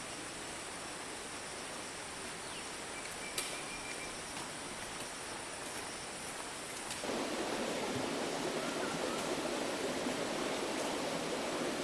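Steady rush of a flowing stream, with a thin high steady whine over it at first. About seven seconds in the sound changes abruptly: the whine stops and the water becomes louder and fuller.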